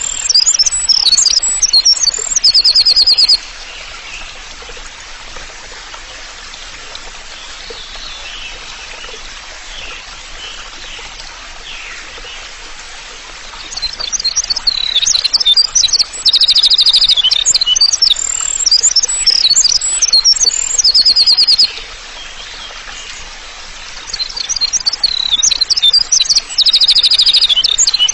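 Songbird song in loud bursts of high-pitched chirps and rapid buzzy trills. It breaks off about three seconds in, returns at about 14 seconds and again at about 24 seconds, with a quieter stretch of faint background calls between bursts. The near-identical repeating phrases suit a looped bird-song 'therapy' track of the kind played to caged songbirds.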